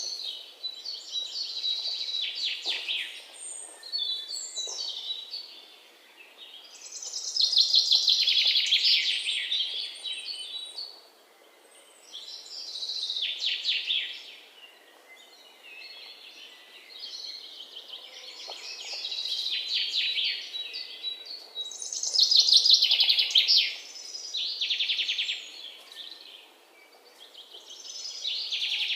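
Songbirds chirping in rapid, high-pitched trilled phrases of two to three seconds each, repeating every few seconds with short lulls between.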